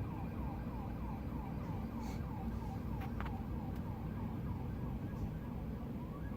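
Police car siren in a rapid yelp, its pitch sweeping about four times a second, fading away about two-thirds through, over the steady rumble of street traffic.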